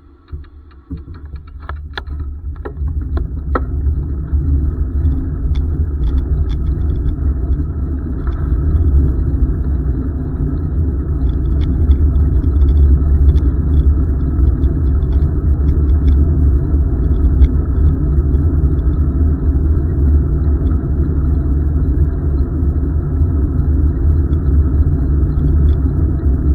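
Wind and road rumble on the microphone of a moving bicycle: a steady low rumble that builds over the first few seconds and then holds, with a few sharp clicks near the start.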